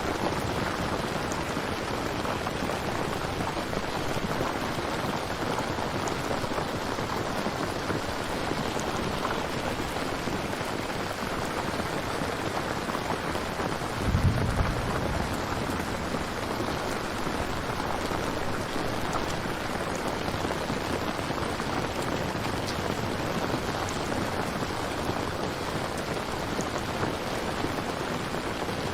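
Steady rain falling in a thunderstorm, an even hiss throughout. About halfway through comes a short, low rumble of thunder.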